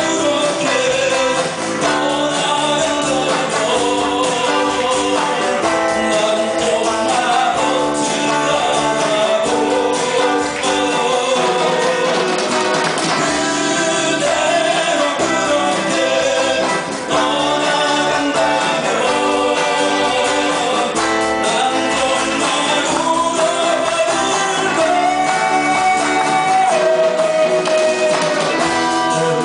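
Live band playing a song, with a singer carrying the melody over the band and a steady beat.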